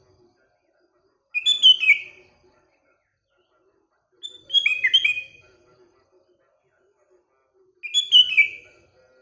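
Sooty-headed bulbul (kutilang) singing: three short phrases of slurred whistled notes, each about a second long and about three seconds apart.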